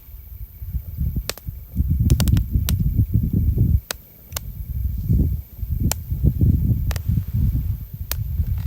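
Campfire crackling: scattered sharp pops and snaps from burning wood, over an uneven low rumble that swells and drops.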